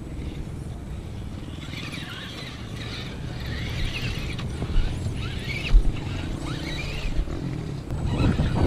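Electric RC crawler's motor and gears whining, the pitch rising and falling with the throttle, over a low rumble of wind on the microphone.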